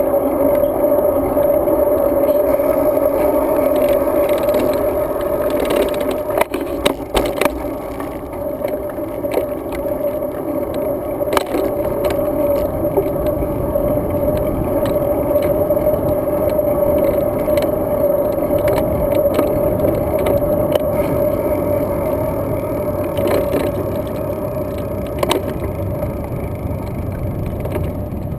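Steady riding noise from a road bike on the move, wind and tyre rumble with a steady hum, broken by a few sharp knocks about six to seven seconds in and again around eleven seconds.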